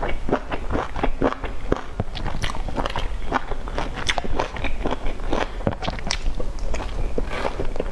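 Close-miked chewing of a soft boiled dumpling dipped in sauce: wet, irregular mouth clicks and smacks, several a second.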